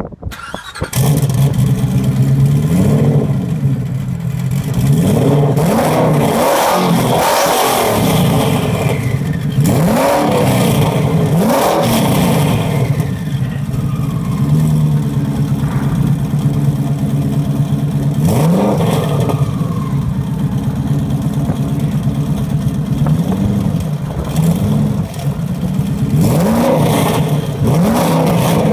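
Twin-turbo Ford GT engine coming in about a second in and idling. Its throttle is blipped again and again, each rev rising and falling back to the same steady idle.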